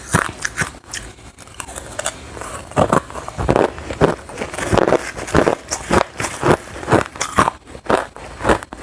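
Close-miked biting and chewing of hard crushed ice: a steady run of sharp crunches, about two a second, growing louder about three seconds in.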